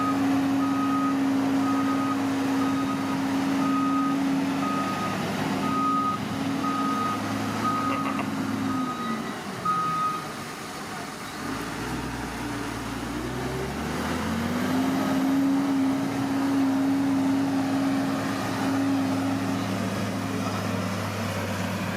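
Bulldozer's diesel engine running with its reversing alarm beeping about once a second. Near the middle the beeping stops and the engine drops to a low idle for a few seconds, then revs back up and runs steadily again.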